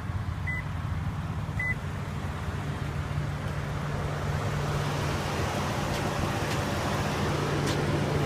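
2015 Lexus RX 350's 3.5-litre V6 idling steadily, a low even hum that grows gradually louder.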